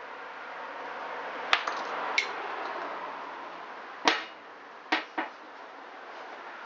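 Five sharp metallic clicks and clinks, the second with a brief ring, from small screws and hand tools being handled and set down on a hard surface during engine work.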